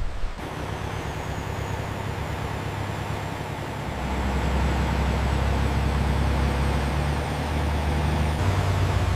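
Heavy vehicle engine running with a steady low hum, getting louder about four seconds in, with a faint high whine above it.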